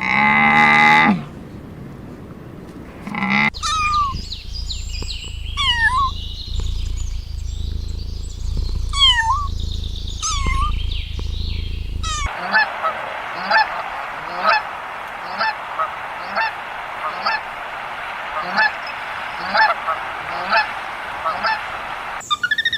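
Geese honking in several separate recordings: scattered calls that dip and rise in pitch over a low rumble, then a steady run of short honks a bit over one a second. A brief lower, steadier call comes in the first second.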